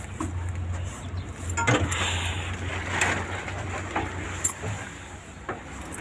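Metal tools clinking and knocking against engine parts, several separate knocks, over a steady low hum.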